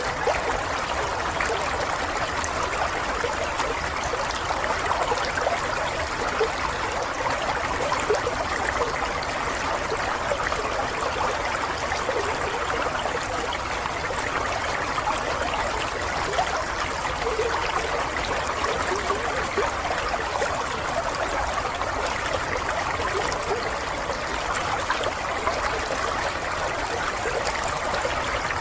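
Water running in a small stream or brook, a steady babbling and trickling with many small splashes.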